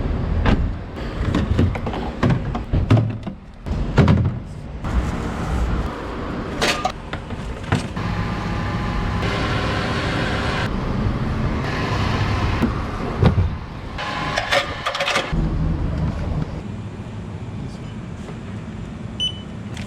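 Yamaha GP1800 jet ski engine running and revving in a series of short cut-together clips, changing abruptly several times.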